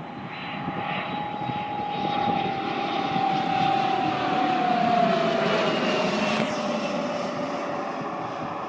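Private business jet landing: its turbofan engines whine over a rushing noise that swells to a peak about five seconds in, the whine dropping in pitch as the jet passes by.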